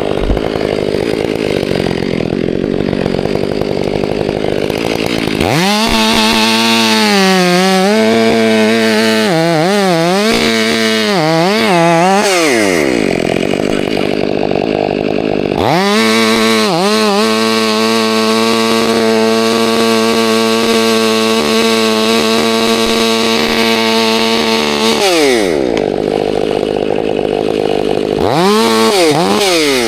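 Chainsaw cutting through a tree section. The engine is held at high revs for long stretches, with a pitch that wavers and drops away twice, and there are a few short revs near the end. The saw bar is binding a little in the cut.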